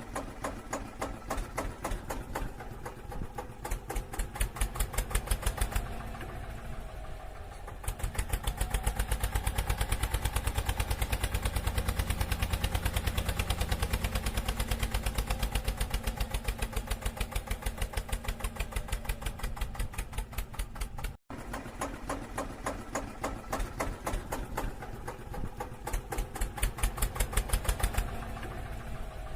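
Tractor engine running with a steady, fast putter, getting louder and heavier partway through, then cutting out for an instant about two-thirds of the way in before running on more quietly.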